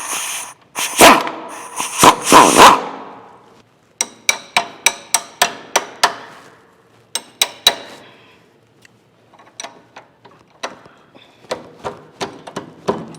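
Hammer blows on steel as a bolt is driven out of a car's front suspension, metal ringing on metal. A few heavy blows come first, then a quick run of sharp strikes about three a second, then lighter, scattered taps near the end.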